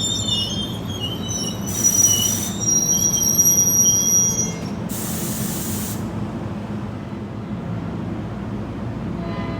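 NJ Transit train rolling past on steel wheels, the wheels squealing in several high wavering tones for the first four seconds or so over a steady low rumble. There are two short bursts of hiss, and the squeal dies away about halfway through, leaving the rumble of the cars.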